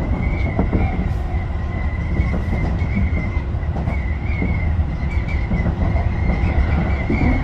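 Tobu 10030-series electric train running, heard from inside the front car: a steady rumble of wheels on rails with a continuous high whine and scattered rail-joint clicks.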